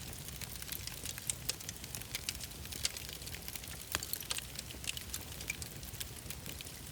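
Wood fire crackling, with frequent irregular sharp pops and snaps over a low steady rumble of the flames; one louder pop about four seconds in.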